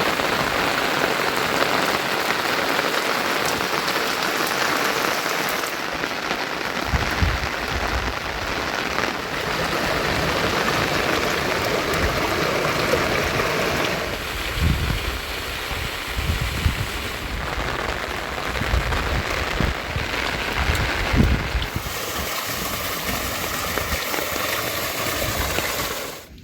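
Heavy rain pouring steadily, with low rumbles coming and going through the middle stretch; the rain's sound changes character a few times and cuts off abruptly at the end.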